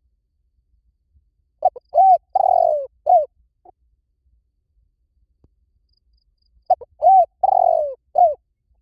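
Spotted dove cooing: two phrases about five seconds apart, each of four low coos, the third note the longest and falling in pitch.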